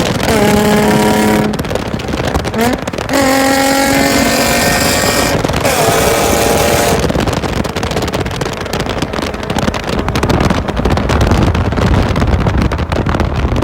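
A car engine running at changing revs, its pitch shifting in steps during the first half, followed by a steady rushing noise with a strong low rumble.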